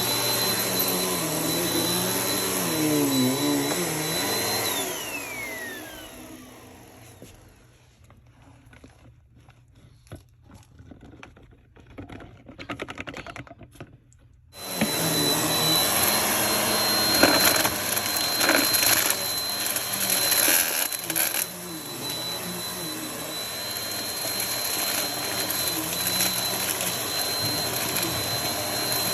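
Vacuum cleaner running, then switched off about five seconds in, its whine falling as the motor spins down. Several quiet seconds of clicks and handling follow. About halfway through it is switched back on abruptly and runs steadily.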